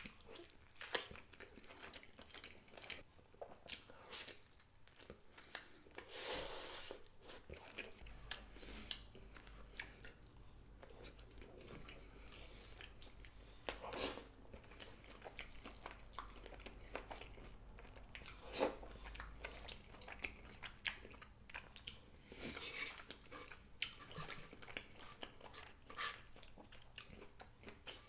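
Close-miked chewing and biting of rotisserie chicken, faint wet mouth noises with scattered small clicks.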